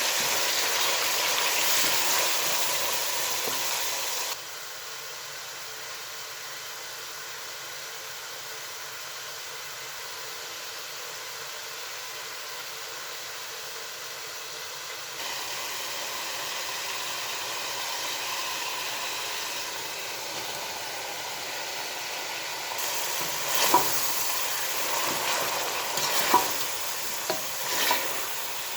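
Food sizzling and frying in a pan. The sizzle drops suddenly about four seconds in and picks up again about halfway through. Sharp scraping and clicking stirring strokes come in over the last few seconds.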